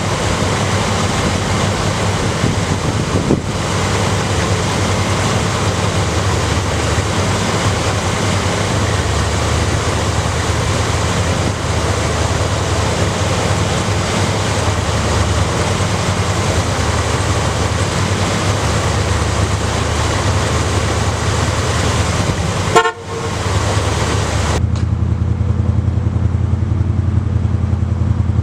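A 1990 Chevrolet C/K pickup's engine running steadily under a loud, even rush of road or wind noise. There is a brief sharp sound about 23 seconds in. Near the end the rush drops away, leaving only the truck's low engine hum.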